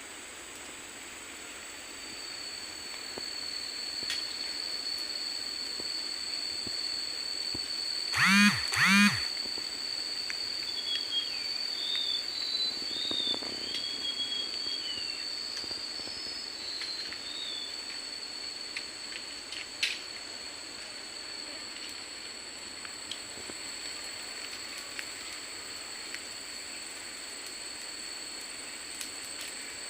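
Tropical forest ambience: a steady high-pitched insect drone, with two short, loud animal calls about eight seconds in and a few bird-like chirps just after.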